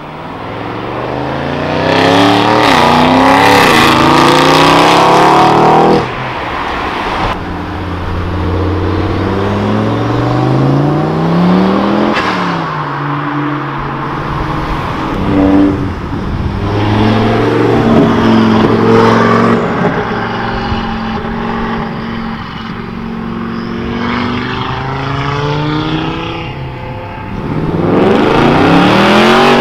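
Audi performance cars' engines accelerating hard, one car after another: the first is a grey Audi RS6 Avant pulling away. Each engine revs up through the gears, its pitch rising and dropping at the shifts, with a single loud crack about halfway through.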